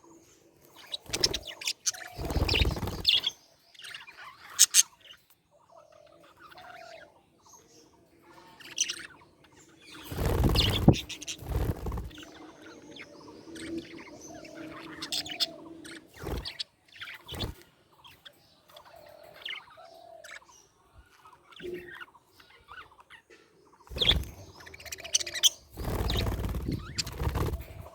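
Pet budgerigars chirping and warbling in short, busy calls. A few louder bursts of rustling noise break in, the loudest about ten seconds in and again near the end.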